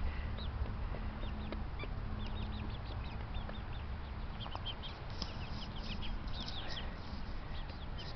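A flock of birds in a bird yard, many short high chirps and peeps overlapping, busiest in the second half, over a steady low rumble.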